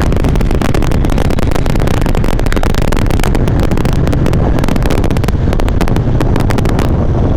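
Harley-Davidson motorcycle's V-twin engine running at road speed, heard from a helmet chin microphone along with wind noise, under a dense crackle of clicks: the recording problem the rider is trying to cure, which he says is not wind.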